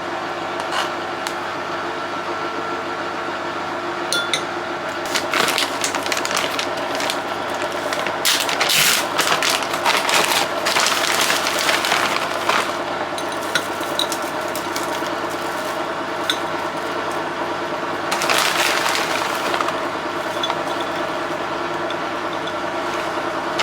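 A steady mechanical hum, with bursts of rapid clicking and clattering over it in the middle and again near the end.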